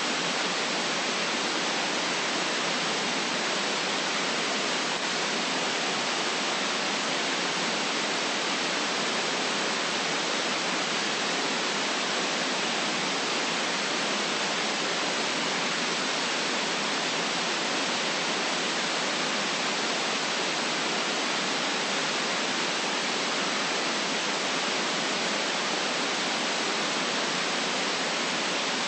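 Steady synthetic white noise: an even, unchanging hiss with no variation, most of its energy in the upper range and little below about 150 Hz.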